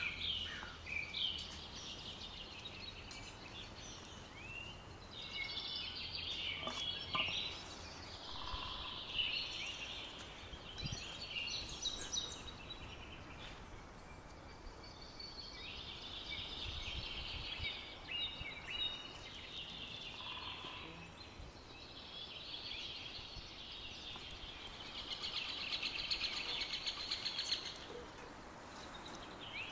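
Small songbirds chirping and trilling again and again over a steady outdoor background.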